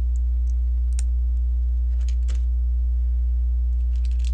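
Small plastic Lego pieces clicking and rattling as they are handled and fitted, with light clicks about a second in, around two seconds, and a cluster near the end, over a loud, steady electrical hum.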